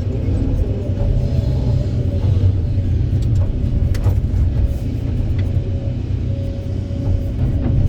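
Kobelco SK200 hydraulic excavator working: its diesel engine runs with a steady low rumble under a faint hydraulic whine, with a few sharp knocks about four seconds in and near the end.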